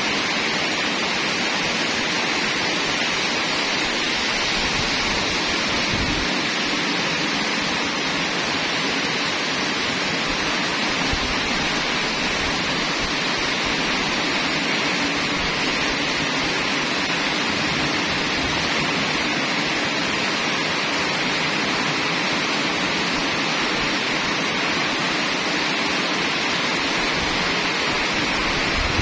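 Heavy rain pouring steadily on leaves, roofs and a paved lane: a dense, even hiss of rain falling really hard.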